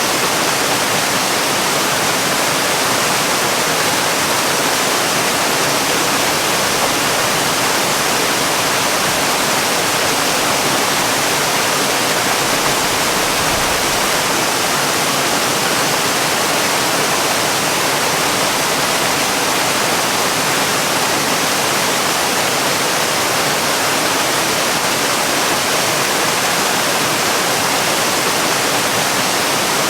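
Waterfall: water falling and pouring steadily, an even, unbroken rushing hiss.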